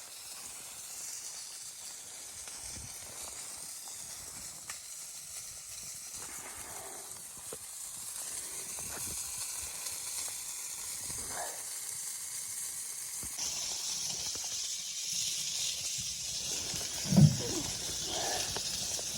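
A steady hiss that gets louder about two-thirds of the way through, with scattered small clicks and one short, loud low thud near the end.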